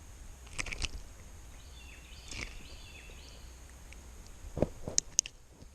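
Quiet outdoor background with a few short, faint high chirps, then several sharp clicks and taps near the end.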